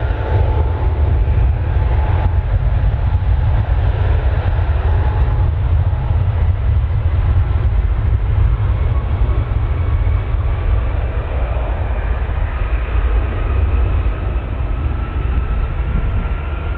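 Jet airliner's engines at takeoff power: a loud, steady low rumble with a thin turbine whine that climbs slowly in pitch in the second half.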